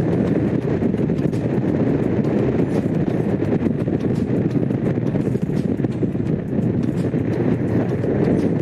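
Honda CX500 V-twin engine running steadily under way, with wind rushing over the microphone.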